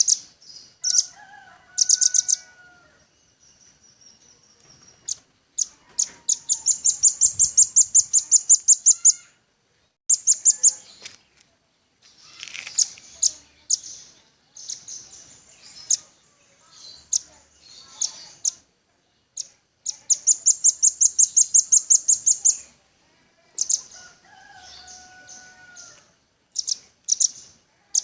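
Velvet-fronted nuthatch (rambatan paruh merah) calling: high, sharp chips and long rapid trills of about seven notes a second.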